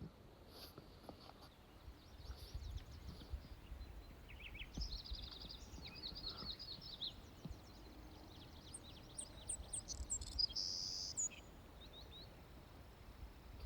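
Small songbirds chirping and trilling in a series of short phrases, busiest in the middle and late part, over a low rumble of wind on the microphone.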